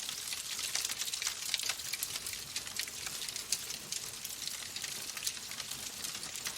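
Wood fire burning in a fireplace: a steady hiss with many small, irregular crackles and pops.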